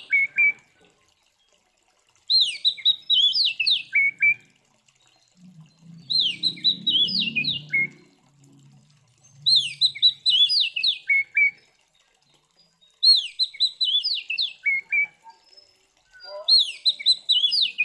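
Oriental magpie-robin (kacer) song: a phrase of about two seconds made of loud whistled notes and quick downward sweeps, ending in lower notes. The same phrase repeats five times, about every three and a half seconds.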